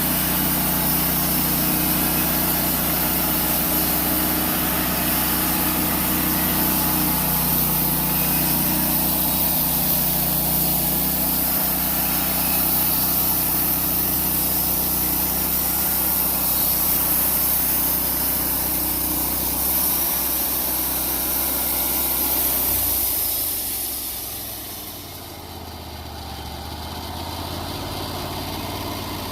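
Wood-Mizer LT35 band sawmill running steadily, its engine under load and the band blade hissing through a log. Near the end the engine note changes and the sound drops to a quieter, lower running.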